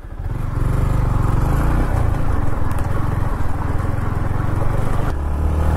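Yamaha MT-15's single-cylinder engine running steadily under way. Its note shifts slightly about five seconds in.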